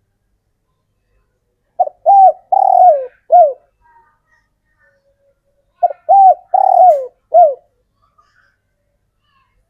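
Male spotted dove cooing: two phrases of four coos each, about four seconds apart, the third coo in each phrase the longest and falling in pitch. It is the male's call for drawing females.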